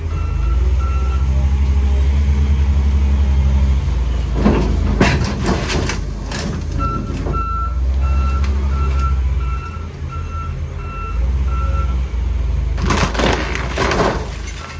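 A loader's engine runs steadily while its reverse alarm beeps at about two or three beeps a second, stopping and starting again. Scrap car metal clanks and crunches in two bursts, the first starting about four and a half seconds in and the second near the end.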